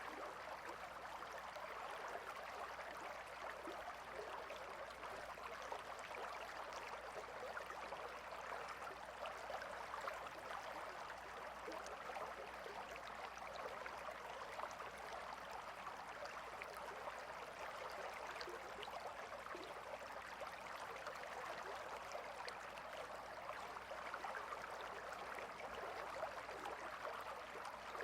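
A gentle river flowing steadily, an even, unbroken babble of water.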